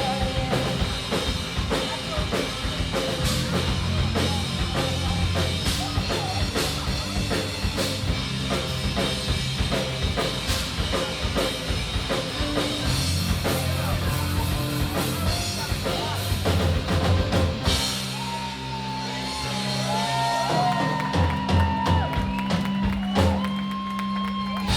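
Live rock band of keyboards, bass, electric guitar and drums playing loudly, with dense drumming. About 18 s in the steady drumming drops away, leaving held chords ringing with scattered drum hits.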